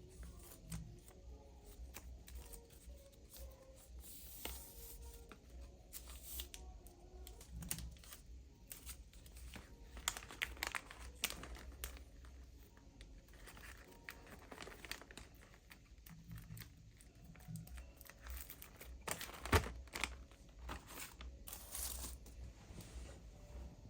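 Crinkly material being torn and crumpled by hand: many short crackles, rips and clicks scattered through, over a steady low hum.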